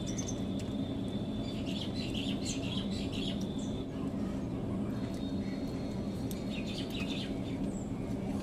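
Birds chirping in short bursts twice, over a steady low hum.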